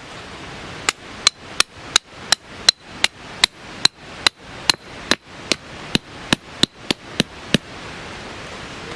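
A hammer striking metal in a steady series of about nineteen sharp blows, a little under three a second, the kind of driving used to sink a tent peg. The blows sit over a steady hiss.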